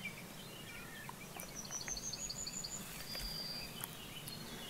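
A bird singing faintly over quiet rural outdoor ambience. About a second and a half in comes a quick run of short high notes, then a single short high note.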